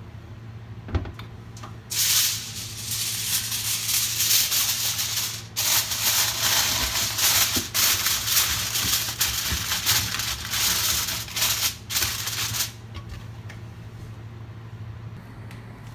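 A loud rattling, rustling noise that starts about two seconds in and stops about three seconds before the end, with two brief breaks, over a low steady hum.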